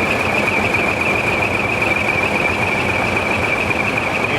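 Truck engine running steadily, with a continuous high-pitched warbling tone over it.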